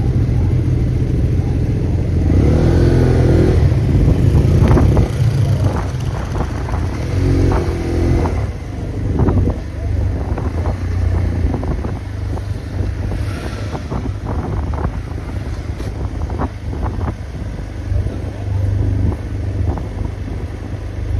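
Motorcycle engine running under way, rising and falling in pitch a couple of times as it revs, with wind buffeting the microphone.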